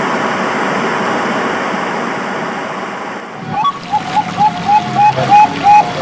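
A steady rushing noise like running water for about three seconds, then a zebra dove (perkutut) begins its song: a quick run of short, clipped coos, about three a second.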